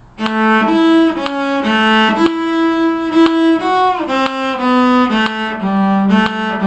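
A bowed string instrument plays a short fiddle-tune phrase as a run of separate bowed notes, with a slide down between two notes about four seconds in.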